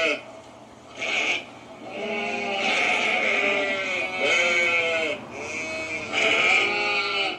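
A bleating animal calling over and over: a short bleat about a second in, then a string of longer, wavering bleats.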